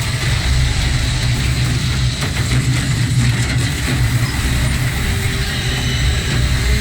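Car engines running with a steady, heavy low rumble and road noise, the engine sound of a movie car chase.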